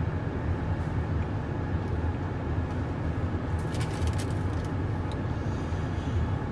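Steady low hum of a car idling, heard from inside the cabin, with a brief crackle about four seconds in.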